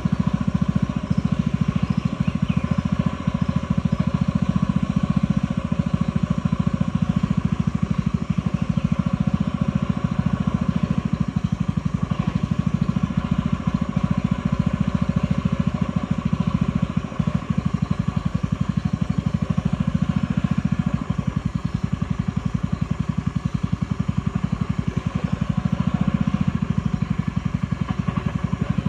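Boat motor running steadily at constant speed, a fast, even chugging that is loudest in the deep range and hardly changes.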